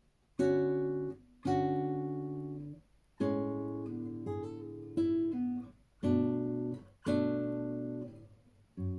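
Acoustic guitar playing a slow song introduction: a chord is strummed about every second or so and left to ring out, the first about half a second in.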